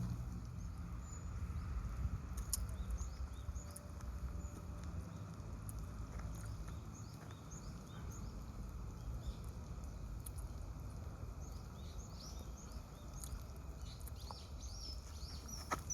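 Outdoor park ambience: small birds chirping in short, high calls, more often near the end, over a steady low rumble.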